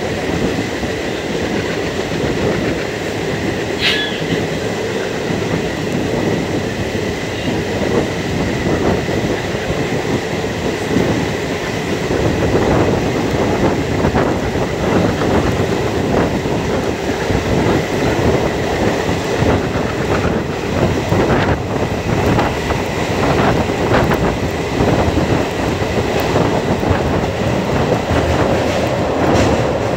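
Passenger coach of an Indian Railways express running at speed, heard from its open doorway: a steady rumble of wheels on rail with a rapid clatter of wheels over joints, growing louder about halfway through.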